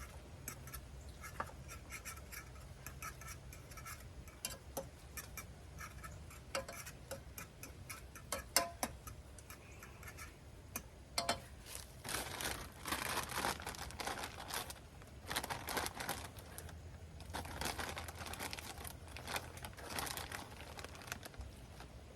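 Small kitchen handling sounds: light clicks and knocks of utensils and containers, then stretches of rustling and scraping in the second half, over a low steady hum.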